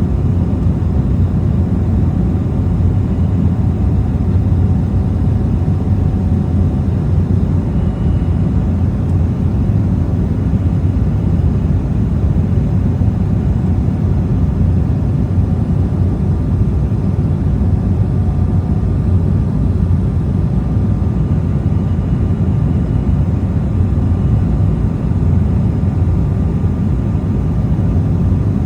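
Steady cabin noise inside an Embraer E190 airliner: a constant low rumble from its turbofan engines and the airflow, with a faint steady whine above it.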